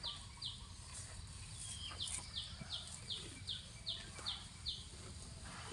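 A bird calling with short, high chirps that fall in pitch, about two to three a second: a pair at the start, then a run of about eight from about two seconds in.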